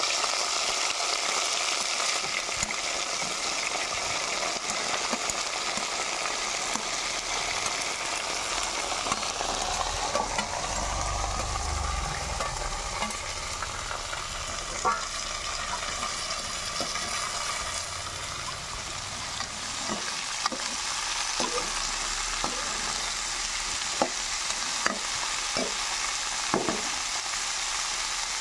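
Sliced bitter gourd sizzling steadily in hot oil in a metal kadai as it is stirred with a steel spoon. The sizzle is strongest at first, just after the slices go in. From about halfway on, the spoon knocks and scrapes against the pan several times.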